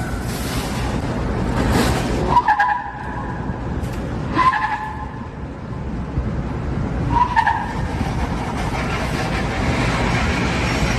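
Heavy vehicle noise with a steady rushing sound, broken three times by a short high squeal about two, four and seven seconds in.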